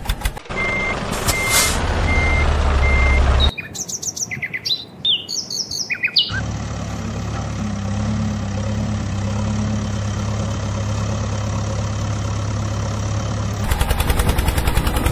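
A sequence of abruptly changing sounds: an engine running with three short, evenly spaced beeps, then birds chirping for a few seconds, then a steady engine hum, and near the end a louder engine with a rapid firing rhythm.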